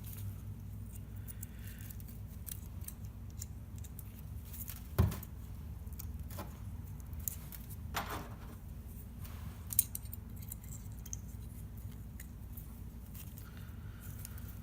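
Steel brake hardware clips being handled and snapped onto a caliper bracket: scattered light metallic clicks and taps, with a sharper knock about five seconds in and more near eight and ten seconds, over a low steady hum.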